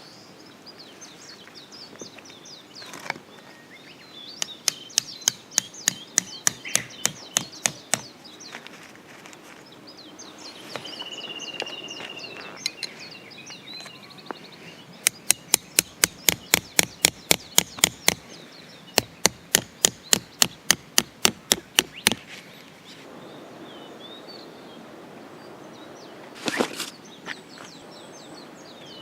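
Three runs of sharp, evenly spaced blows from a hand tool, about four a second, with a single heavier knock near the end.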